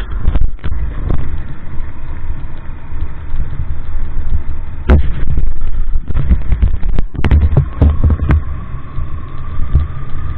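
A vehicle travelling over a rough road: a loud, uneven low rumble with scattered knocks and jolts, heaviest in the middle.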